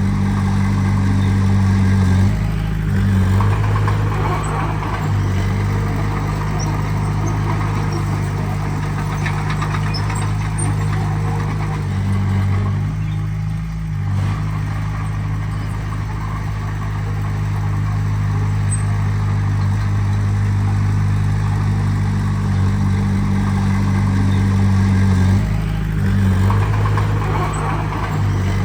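Heavy diesel earthmoving machine's engine running steadily. Its note changes with load about two and a half seconds in, drops briefly around the middle, and changes again near the end.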